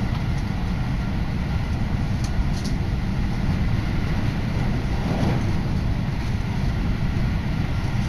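Tokaido Line electric train running at speed, heard inside the carriage as a steady low rumble, with a brief swell of noise about five seconds in.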